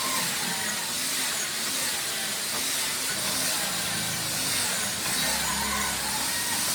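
Steady hiss with a faint wavering low hum beneath it, typical of a machine running in a woodworking shop.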